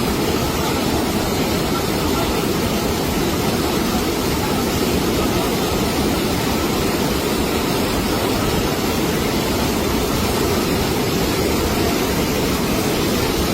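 Steady roar of fast-flowing floodwater, an unbroken rushing noise that stays even in level.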